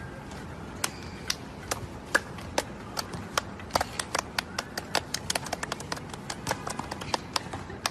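A rapid, irregular series of sharp clicks or taps, coming faster after about three seconds, over a steady hiss.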